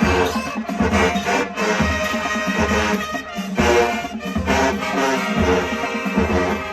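High school marching band playing a brass-led arrangement over a steady drum beat.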